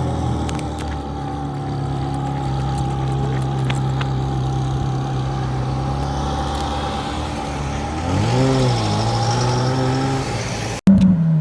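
Ferrari engine running steadily at low revs, with one quick throttle blip that rises and falls in pitch about eight seconds in. Near the end the sound breaks off abruptly and another engine comes in louder, its pitch falling.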